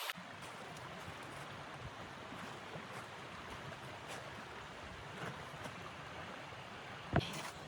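Steady rush of blizzard wind, with a few faint clicks and one sharp knock near the end.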